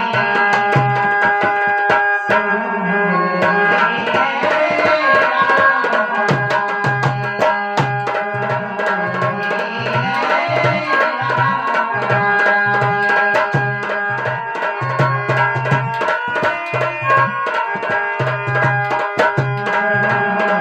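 Instrumental passage of a Hindi devotional bhajan: tabla playing a steady, brisk rhythm with deep bass strokes, under a held melodic line.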